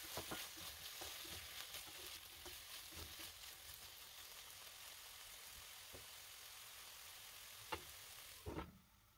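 Chicken pieces and cubed aubergine frying in a pan, a steady faint sizzle with scattered clicks and knocks of stirring. Two louder knocks come near the end, and then the sizzle drops away suddenly.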